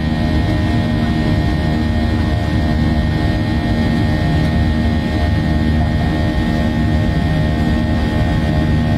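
Jet airliner engines heard from inside the passenger cabin: a steady, unchanging drone with constant tones running through it.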